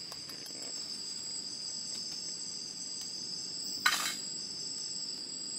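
Forest insects chirring in a steady high-pitched drone. A short sharp clatter about four seconds in stands out above it.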